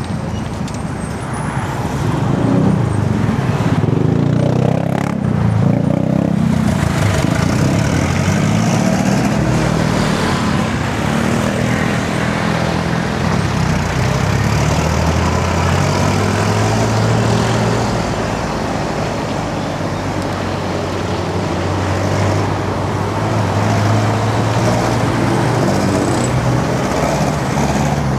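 Road traffic heard from a bicycle: motor vehicle engines running close by, their pitch rising and falling, over a steady noise.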